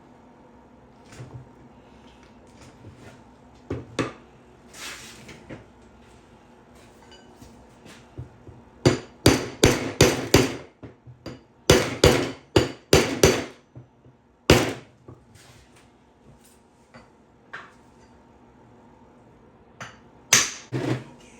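A hammer striking a centre punch on metal: a dozen or so sharp blows in quick runs through the middle, a single blow after them and two more near the end, with lighter knocks of tools being handled before.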